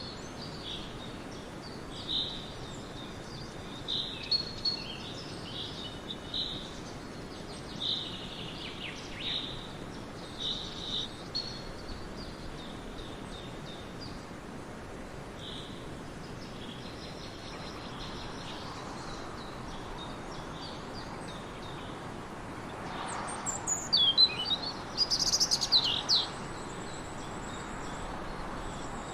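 Small bird chirping: short high calls every second or two, then a louder burst of quick chirps and trills near the end, over a steady background hiss.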